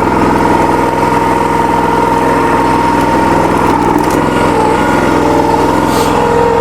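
Log splitter's small engine running steadily, with a constant high hum over the engine note.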